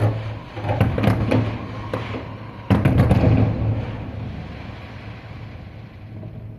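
Fireworks going off: a run of crackling pops, then one loud bang a little under three seconds in, its rumble slowly fading.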